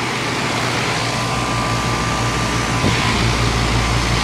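Goodman GSX13 air conditioner condensing unit running steadily in cooling mode: the four-blade outdoor fan on its Broad Ocean motor blowing, over the steady low hum of the Copeland scroll compressor.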